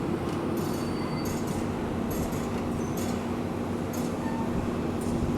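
Excavator's diesel engine running steadily with a droning hum, with scattered light clinks and scrapes throughout.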